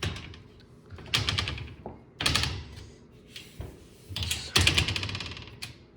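Furnace filter and sheet-metal panel being handled, making short bursts of rapid rattling clicks: four bursts, the longest about four seconds in.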